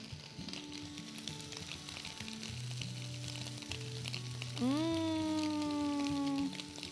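Onion and garlic sautéing in hot oil in a pot, a steady sizzle with the scrape and clicks of a spatula stirring them. Soft background music with low held notes runs under it, and about two-thirds of the way in a louder held note slides slowly down in pitch for about two seconds.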